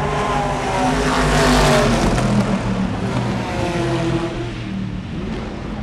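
Race car engine going past at speed, loudest about a second and a half in, its pitch falling as it passes, then engine sound carrying on more quietly.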